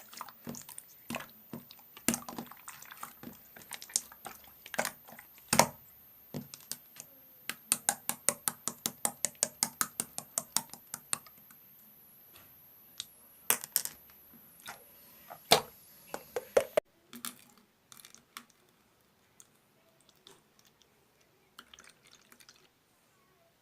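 Clear slime being worked by hand, giving wet clicks and pops. About a third of the way in comes a quick, even run of about four pops a second. After about two-thirds of the way the sounds become sparse and quieter.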